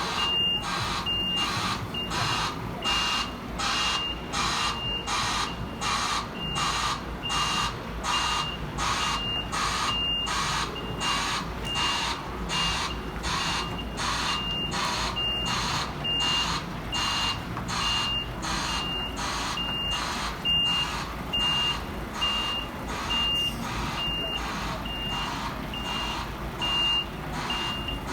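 A truck's reversing alarm beeping: a single high tone repeating evenly, a little faster than once a second, over the low sound of the truck's engine running, as the truck backs up.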